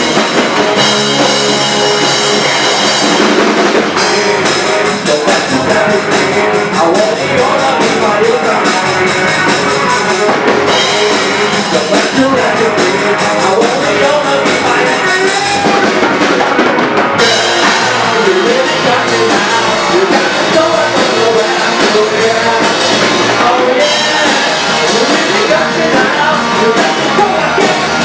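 Rock band playing live: drum kit with cymbals, electric guitar and bass in a loud instrumental passage with no sung words.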